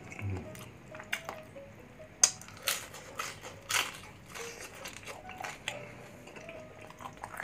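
A person biting and chewing crispy bagnet, deep-fried pork belly with a puffed crackling skin, which crunches close to the mic. A few sharp, loud crunches come in the middle, with softer chewing crackles around them.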